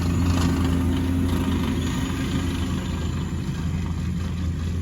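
A motor vehicle's engine running steadily with a low, even hum, along with road or wind noise.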